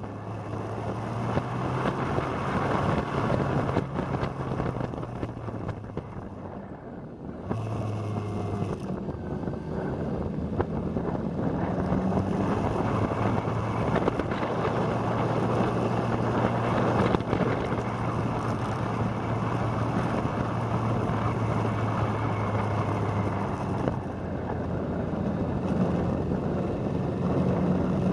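Motorcycle engine running at a steady cruise while riding, with wind rushing over the microphone. The engine backs off briefly about seven seconds in, then pulls steadily again.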